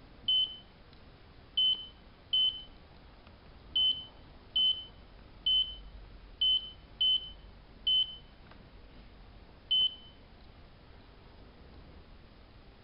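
Control panel of a hanseatic HWM814A3D washing machine beeping: ten short, high single-tone beeps at irregular intervals, most in the first eight seconds and the last about ten seconds in.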